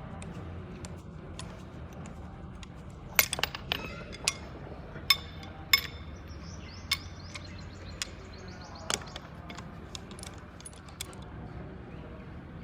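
Sharp metallic clinks and taps of tools and parts being handled, about a dozen at irregular intervals over several seconds, over a steady low hum.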